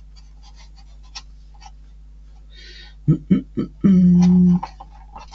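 Faint clicks and taps of small model parts being handled. About three seconds in, a man's voice gives three short hums, then one held hum lasting under a second.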